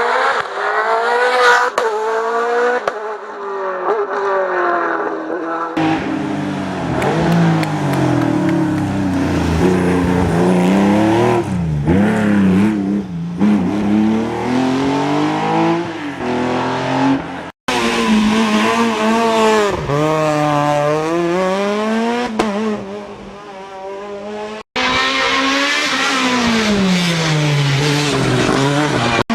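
Race car engines at full throttle, climbing a hill-climb course. The pitch rises and then drops sharply again and again as the cars shift up and brake through the bends. The sound cuts abruptly twice between different cars or passes.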